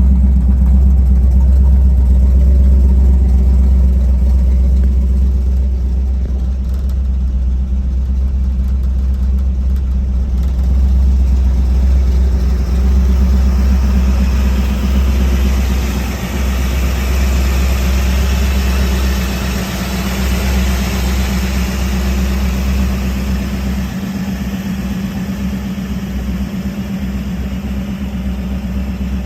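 Freshly installed Chevrolet 350 small-block V8 on an Edelbrock carburetor, running steadily, with added hiss for several seconds in the middle.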